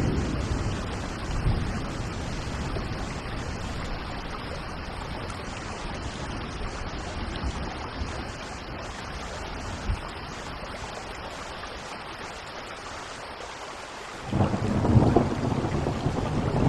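Steady rain with thunder: a low rumble at the very start, and a louder rolling rumble of thunder setting in near the end.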